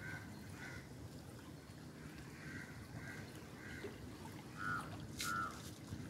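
A bird giving a string of short, repeated calls, about seven in all, the last two loudest, over a low steady rush of river water.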